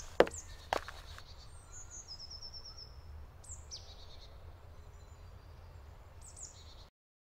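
Woodland ambience: songbirds singing in high note series and short falling calls over a faint low rumble, with a few sharp clicks in the first second. The sound cuts off abruptly near the end.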